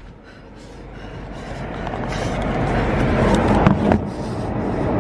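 A car running, heard from inside its cabin: a steady rushing noise that grows louder over several seconds, with two short knocks near the end.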